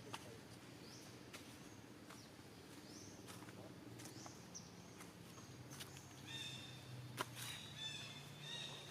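Faint animal calls: short high rising chirps repeating every second or so, then a longer pitched call near the end, among scattered clicks.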